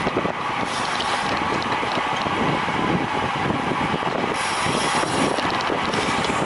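Road bicycle in motion during a race: drivetrain whir with fine ratchet-like ticking, and steady wind on the microphone.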